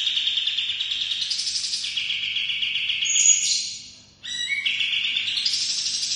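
A kapas tembak songbird singing a long, rapid rolling trill that steps up and down in pitch. It fades briefly about four seconds in, then starts again.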